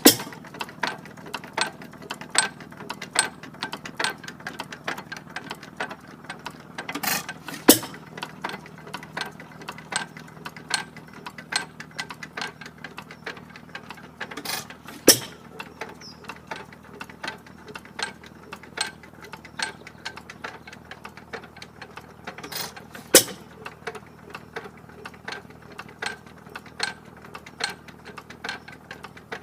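Gray Motor Co. 4 hp Thoroughbred hit-and-miss stationary engine running. It clicks evenly a little over once a second while it coasts, and a louder pair of bangs comes roughly every seven to eight seconds when it fires.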